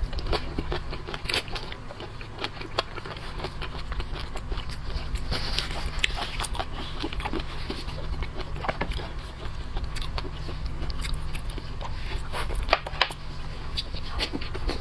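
Close-up eating sounds: biting and chewing seafood, with irregular clicks and crackles throughout and a steady low hum underneath.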